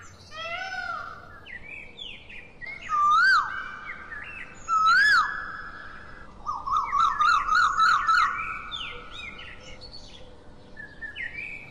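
Birds singing: assorted chirps and whistles. The two loudest whistles, about three and five seconds in, each slide up then down in pitch, and a run of quick repeated notes follows around seven to eight seconds in.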